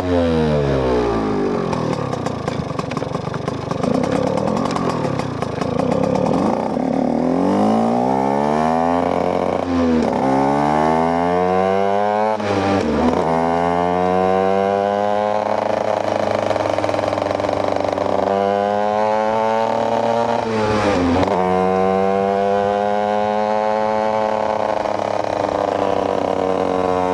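KTM EXC 125 two-stroke single-cylinder engine under way, repeatedly rising in pitch as it accelerates, with a sharp drop at each gear change, about ten, thirteen and twenty-one seconds in. Near the end it holds a nearly steady pitch.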